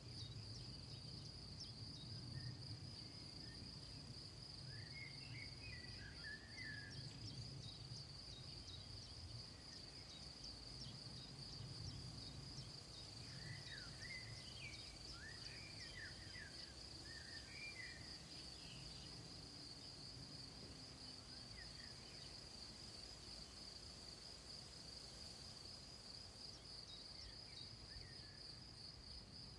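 A steady, faint, high-pitched insect chorus trilling without a break. A bird chirps a few times, about five seconds in and again in the middle, over a low background rumble.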